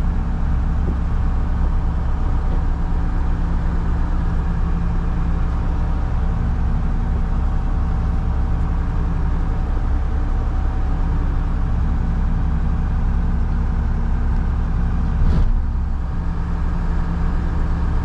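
Front-load garbage truck's engine running steadily, with a single knock about fifteen seconds in.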